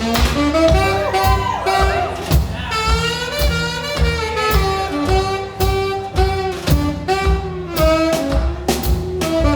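Live swing jazz: a saxophone plays a stepping melodic line over a walking bass, with sharp tap-shoe strikes sounding regularly throughout.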